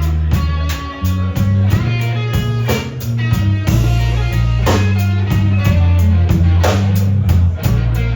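A live band playing a slow blues instrumental: guitar lines over bass notes, with the drum kit keeping a steady beat.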